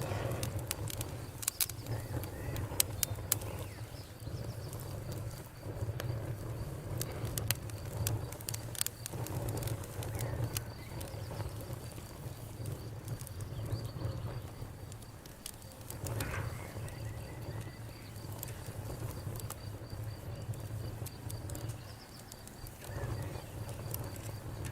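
Campfire crackling, with irregular sharp pops and snaps over a low steady rumble of burning.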